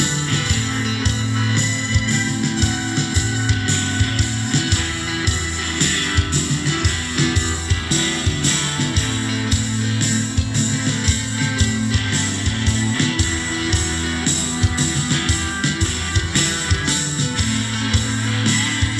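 Rock band playing live through a concert PA: distorted electric guitars, bass and drum kit with a steady beat.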